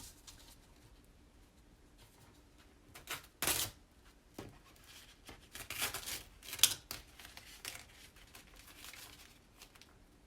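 Sticky craft transfer sheet being handled, peeled and repositioned: quiet rustling with a few brief crackling swipes, the loudest about three and a half seconds in and again around six to seven seconds in.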